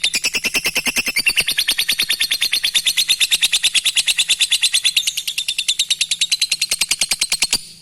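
Lovebird singing 'ngekek': a long, rapid chattering trill of high, harsh notes at about a dozen a second, held without a break and cutting off abruptly near the end.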